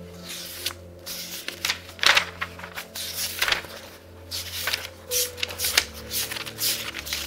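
Pages of a very thick book being turned rapidly one after another: a quick, irregular run of papery swishes and rustles, over soft background music.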